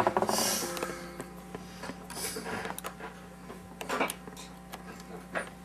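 A few faint clicks and taps from test leads and equipment being handled on a workbench, over a low steady hum. The Rhodes power amp channel under test gives out no sound at all.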